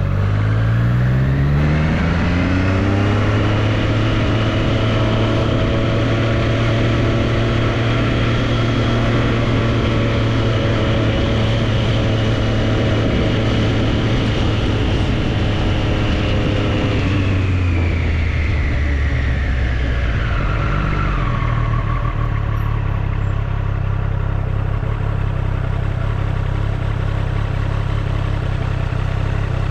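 Triumph Street Triple's inline three-cylinder engine pulling up through the revs for the first few seconds, then holding a steady cruise. About seventeen seconds in, the revs drop over a few seconds and the engine settles to a low, steady run near idle.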